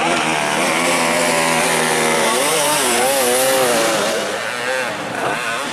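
Several enduro dirt bike engines revving at once, their pitch rising and falling as the riders work the throttle.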